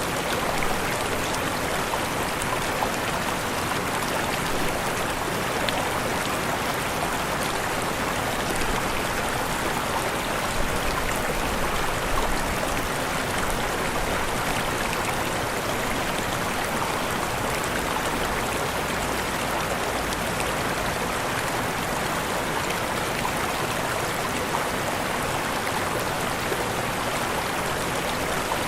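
Waterfall: steady rushing of falling water, even and unbroken throughout.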